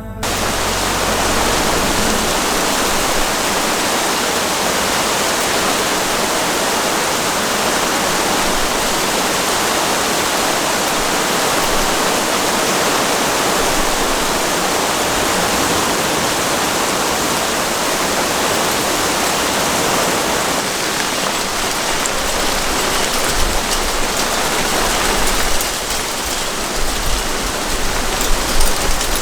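Steady rain, an even dense hiss. Near the end, sharper, uneven drops land louder over it.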